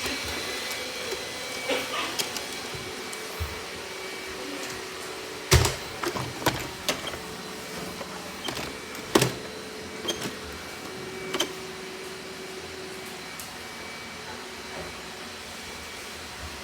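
Robot vacuum running with a steady whirring hum, broken by a scatter of sharp knocks, the loudest about five and a half and nine seconds in.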